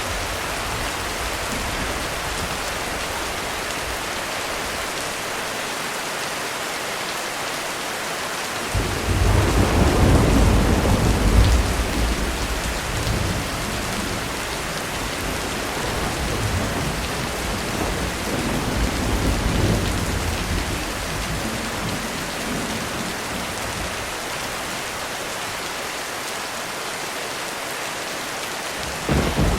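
Heavy rain falling steadily on a roof. About nine seconds in, a roll of thunder breaks in suddenly and rumbles for around ten seconds before dying away, and another thunderclap starts right at the end.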